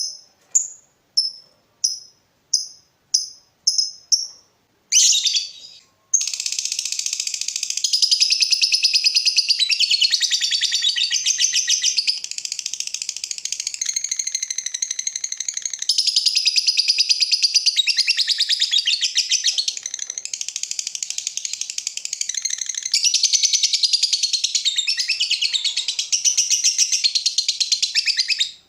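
A lovebird calling: first a string of separate sharp chirps, about two a second, then a long unbroken rapid chatter lasting over twenty seconds that cuts off suddenly near the end. This is the long 'ngekek' chatter, preceded by 'ngetik' ticking, that is prized and trained for in fighter lovebirds.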